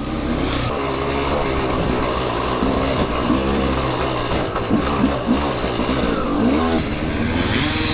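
Dirt bike engine running loud and steady while riding, its pitch rising and falling again and again as the throttle is worked.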